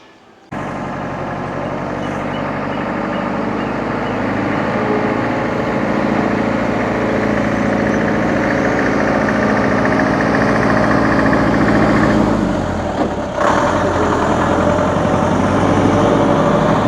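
Heavy vintage vehicle engine running steadily, loud and close, with a change in its note around twelve seconds in.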